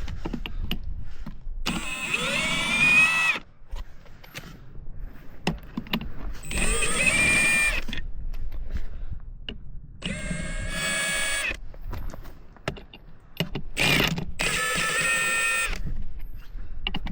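A power tool spinning wheel nuts off, likely a cordless wrench or drill. It runs in five separate bursts of motor whine, each rising in pitch as the motor spins up, then stopping.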